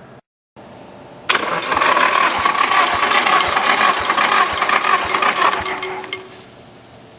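Nissan SR20DET engine cranked over by its starter motor for a compression test. The cranking starts suddenly just over a second in, has a regular beat about twice a second, and dies away about six seconds in.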